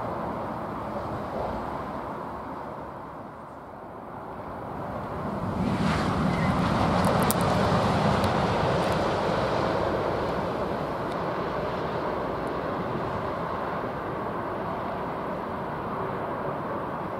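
A high-speed electric train passing, its rushing noise swelling about six seconds in and then slowly fading, with wind on the microphone.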